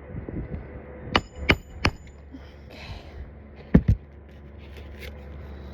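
Sharp hammer strikes on an asphalt-shingle roof during a shingle repair: three quick knocks, then a pause, then two more.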